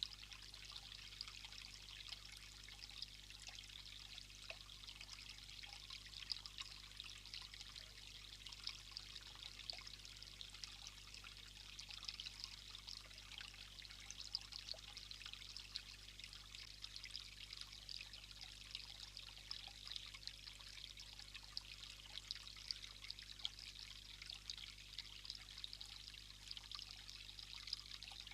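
Faint, steady trickle of running water with fine crackling throughout, over a low steady hum.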